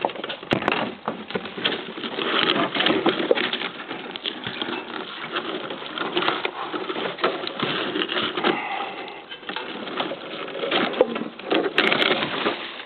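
Continuous rustling and scraping of brush and branches with scattered snaps and knocks as a person climbs down through dense undergrowth and scrap metal, with a louder burst of clatter near the end.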